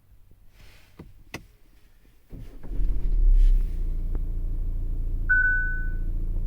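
A couple of clicks, then the Kia Sportage's engine starting a couple of seconds in, flaring briefly and settling into a steady idle. A short beep sounds near the end.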